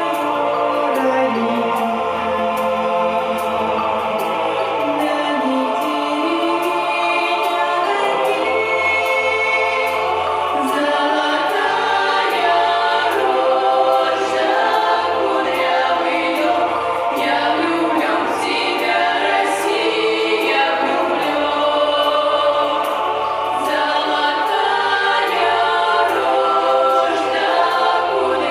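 Group of children's voices singing together in chorus over instrumental accompaniment with a changing bass line.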